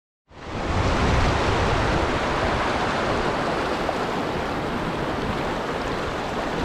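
Steady rush of river water pouring over falls and rapids, starting abruptly about a third of a second in.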